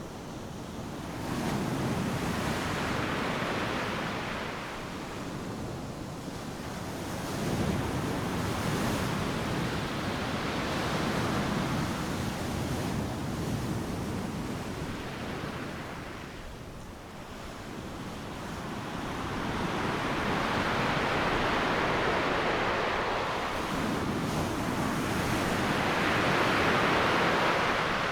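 Ocean surf: waves breaking and washing up a sandy beach, the noise swelling and ebbing in about three long surges, with the loudest surge near the end.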